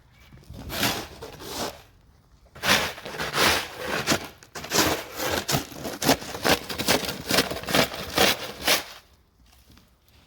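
Snow crunching and scraping in quick, irregular strokes, with a short pause about two seconds in, then dying away near the end.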